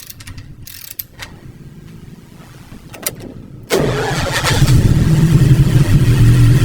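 A few light clicks, then nearly four seconds in the Cadillac V-16 engine starts abruptly and runs with a steady low drone.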